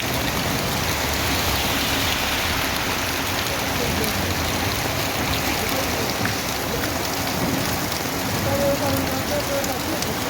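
Rain falling steadily on hard surfaces, a dense, even hiss.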